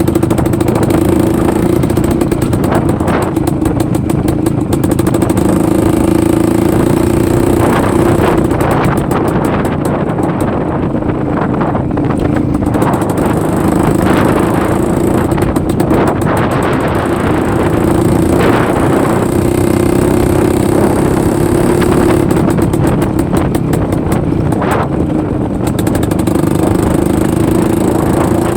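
IZh-49 motorcycle's single-cylinder two-stroke engine running steadily under way, its pitch rising and falling a little with the throttle, with a few short surges of noise.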